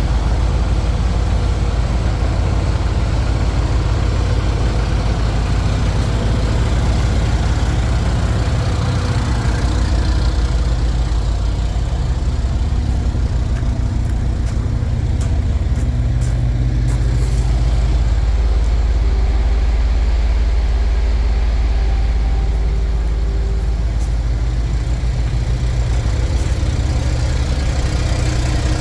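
Volvo FL 240 truck's diesel engine idling steadily.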